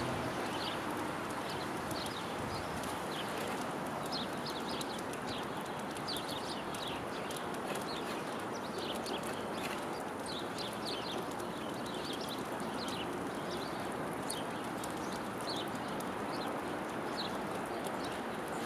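Small birds chirping: many short, high calls scattered irregularly over a steady background hiss.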